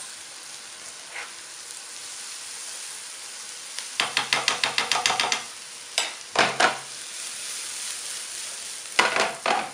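Chopped onions sizzling steadily in hot oil in a frying pan, with a metal spoon stirring and scraping the pan: a quick run of strokes about four seconds in, more around six seconds, and again near the end.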